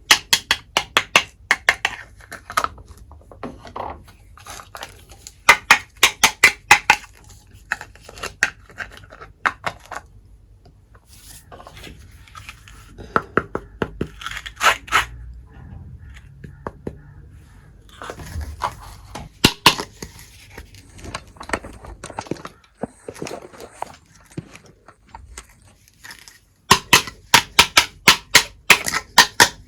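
Miniature toy kitchen pieces and their packaging being handled up close: irregular runs of small, sharp clicks and taps, with a fast string of clicks near the end.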